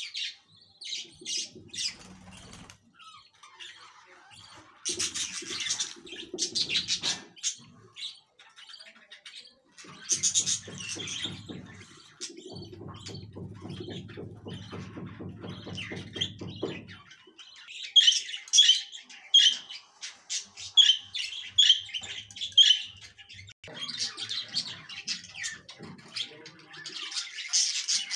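Birds chirping and calling in irregular bursts of quick high notes, with a stretch of lower, rasping sound midway.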